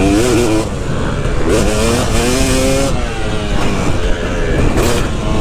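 KTM 250 SX two-stroke motocross engine revving while being ridden: its pitch climbs about a second and a half in, holds, and drops off around three seconds.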